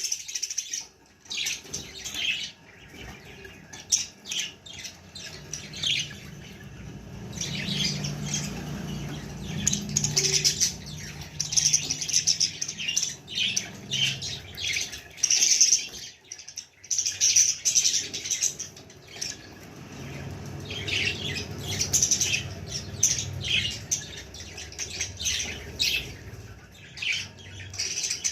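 Budgies chirping and squawking in many short, irregular high-pitched calls.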